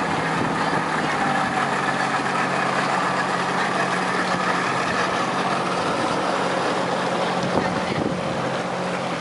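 Motorboat engine running steadily under way, a constant low drone with rushing wind and water noise over it.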